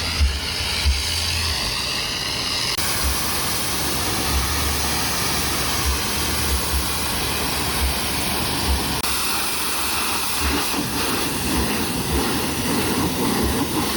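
Car moving at speed: steady road and wind rush with irregular low thumps of wind buffeting the microphone. The noise changes character about three seconds in.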